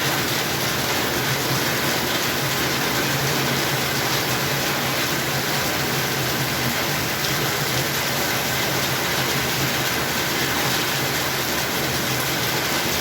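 Steady heavy rain falling, a constant even hiss of water with a faint low hum underneath.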